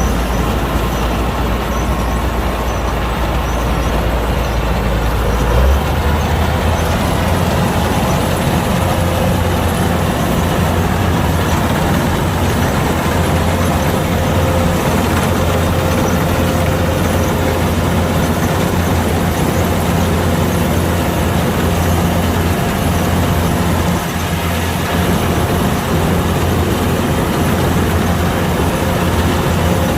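Kubota DC-105X combine harvester running steadily while harvesting rice, a continuous heavy engine and machinery drone. About six seconds in, the low drone steps up in pitch.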